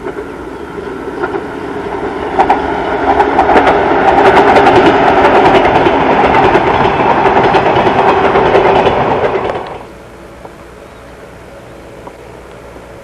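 A train passing close by on jointed track. Its rumble builds over a couple of seconds into a loud run of rapid wheel clicks over the rail joints, then cuts off suddenly about ten seconds in, leaving a faint steady background.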